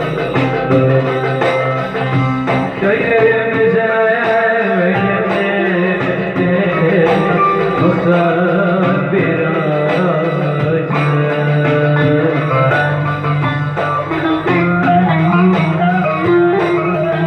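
Electric bağlama (saz) playing a Turkish folk melody with backing accompaniment.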